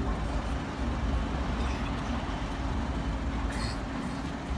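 Diesel train engine running with a steady low drone, with a short hiss about three and a half seconds in.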